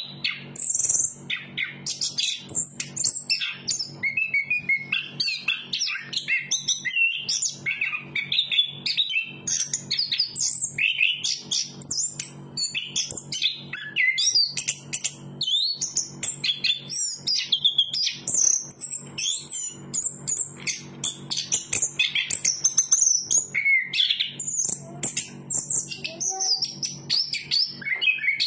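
Chestnut-capped thrush singing a long, unbroken song of quick, varied whistles and trills, over a faint steady low hum.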